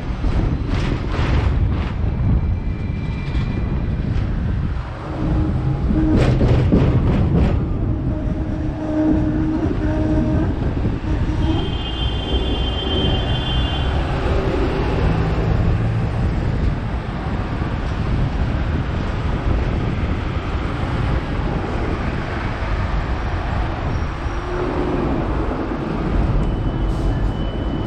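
Hong Kong double-decker tram running along its street rails, heard from on board: a steady rumble and rattle, with a few sharp clicks near the start and around six seconds in and brief ringing tones in the middle.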